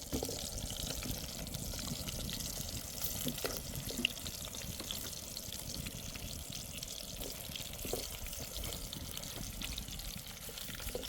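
Water running steadily, with small clicks scattered through it.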